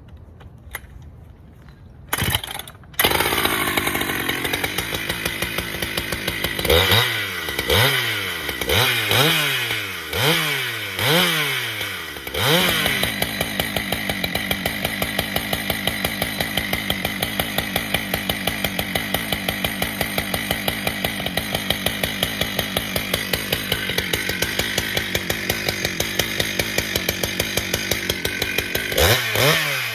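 Husqvarna chainsaw starting about three seconds in and idling briefly, then revved in a series of quick up-and-down blips before running steadily at full throttle for most of the time, as when bucking a red oak log; it is revved in blips again near the end.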